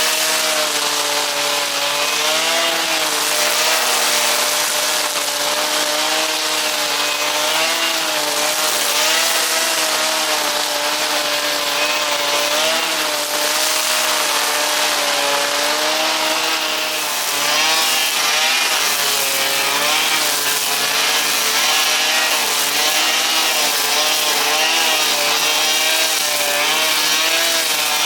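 Two-stroke petrol brushcutter engine running at high revs while cutting grass, its pitch wavering up and down as the line or blade meets the grass.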